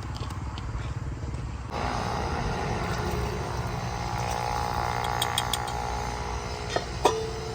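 A motor or engine running steadily with a low, even hum. Its sound shifts abruptly about two seconds in, and a few sharp clicks come near the end.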